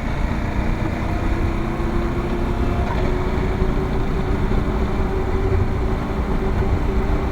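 Motorcycle riding at a steady cruise on pavement: a steady engine hum under a heavy rush of wind and road noise.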